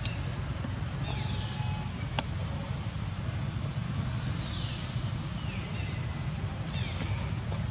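Baby monkey giving several high squeals that fall in pitch, over a steady low rumble of wind on the microphone.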